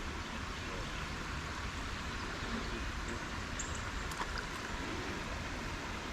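Small creek water flowing steadily, an even rush with no break, with a few short high chirps about halfway through.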